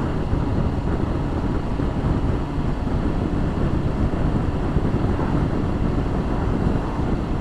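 Motorcycle on the move, heard from the rider's own bike: a steady, mostly low rush of wind on the microphone mixed with engine and road noise, with no distinct engine note.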